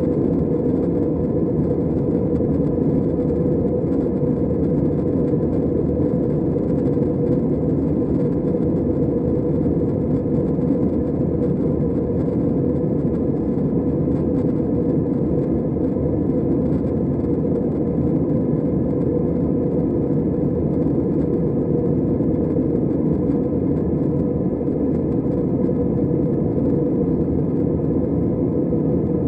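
Steady cabin drone of an Airbus A320's engines and airflow, heard from inside the passenger cabin, with a faint steady hum running through it.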